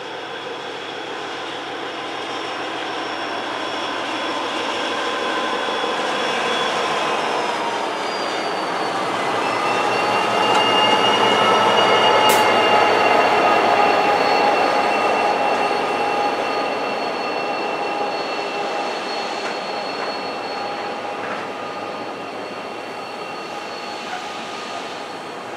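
Diesel-hauled freight train passing on the rails, growing louder to a peak about halfway through and then fading. Steady high-pitched wheel squeal rings over the rumble, and its tones shift in pitch partway through.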